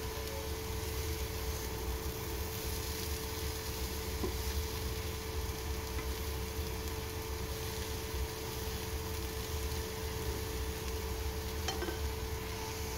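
Bitter gourd and egg stir-fry sizzling gently in a frying pan, with a steady hum underneath and a couple of faint clicks.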